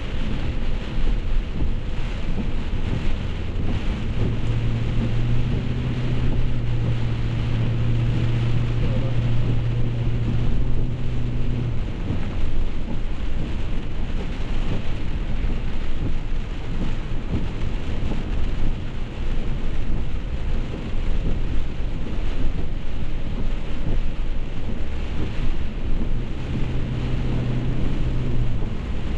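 Heavy rain falling steadily, with a constant low rumble underneath. A steady low hum comes in from about four seconds to twelve seconds, and again briefly near the end.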